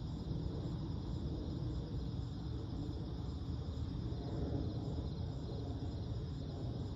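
Steady chorus of night insects trilling high up over a continuous low rumble of background noise.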